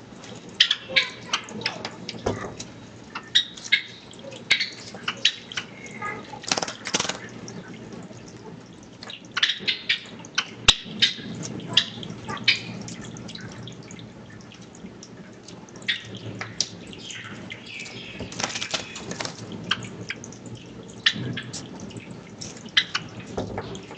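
Java sparrows bathing in a fish tank: irregular quick splashes and flicks of water from their wings, heard through a security camera's microphone.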